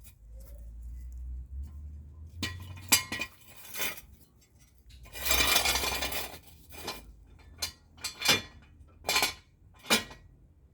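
Steel jack stands being set in place: a series of sharp metallic clinks and knocks, with one longer scraping sound about halfway through.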